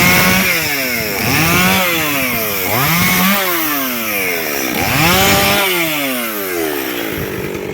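Chainsaw cutting firewood, its engine revving up and dropping back four times, about every one and a half seconds.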